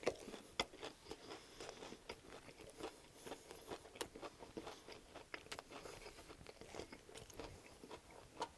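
Close-miked chewing of a mouthful of chicken ranch wrap (soft flour tortilla, crispy breaded chicken, lettuce): quiet crunching with many small wet mouth clicks.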